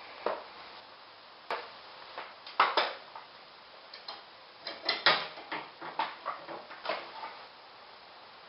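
Irregular metal clicks and clanks of hand tools on garage door torsion spring hardware during spring replacement, a few of them ringing briefly; the loudest come about two and a half and five seconds in.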